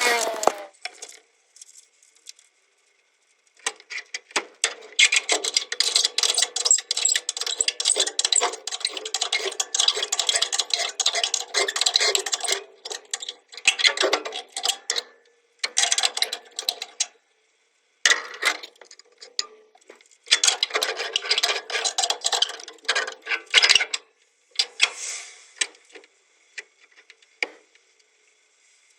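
Rapid metallic clicking and rattling in several bursts, the first and longest lasting about eight seconds, then shorter bursts of one to three seconds with brief pauses between.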